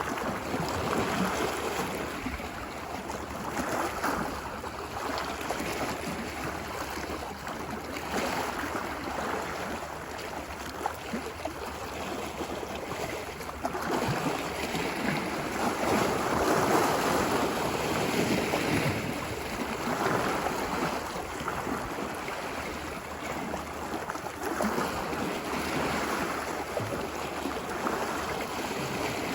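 Ocean waves washing ashore on a beach, a steady rush of surf that swells and eases every few seconds, fullest about halfway through.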